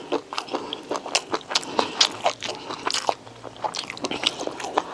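Close-miked mouth sounds of someone chewing food: an irregular run of short, sharp, wet clicks and smacks, several a second.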